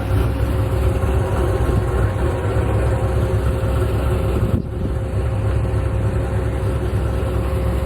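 A vehicle engine idling steadily: a continuous low rumble with a steady hum, which dips briefly about halfway through.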